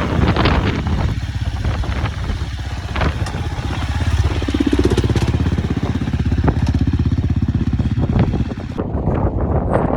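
Dirt bike engine running at low revs in a steady, even pulse, as when rolling down a steep descent, with occasional sharp knocks and clatter from the bike over rocks.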